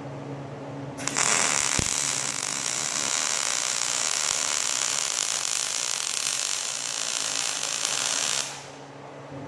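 Electric arc welding a bead: a steady hiss that starts abruptly about a second in and stops about a second before the end, over a low steady hum.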